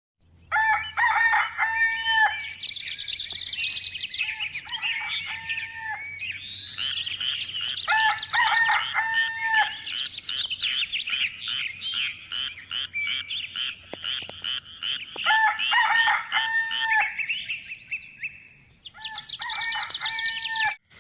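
Roosters crowing again and again, in calls about two seconds long, over steady warbling chirps of small birds.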